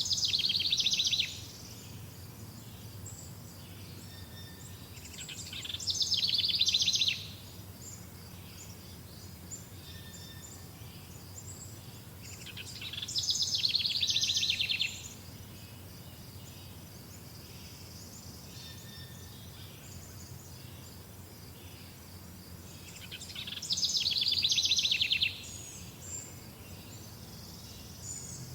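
A songbird singing a fast trill four times, each swelling in loudness over a second or two before stopping abruptly. Faint steady insect chirping runs underneath.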